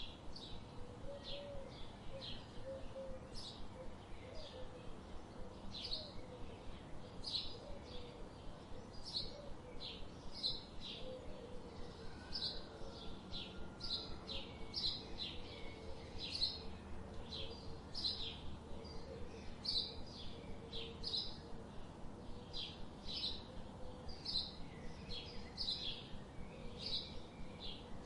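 Birds chirping in a forest: short high chirps repeated about twice a second without a break, over a steady low background rumble.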